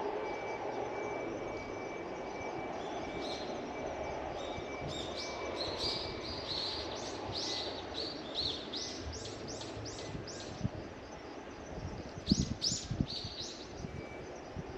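A small bird calling a quick run of high, repeated chirps, with a second short run later, over a steady low background rumble. A few low knocks come near the end.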